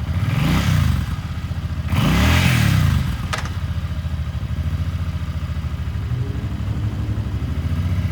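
2020 Suzuki Boulevard C50's 805cc fuel-injected V-twin idling and blipped twice, about half a second and two seconds in, each rev rising and dropping back, then idling steadily. A short click about three seconds in.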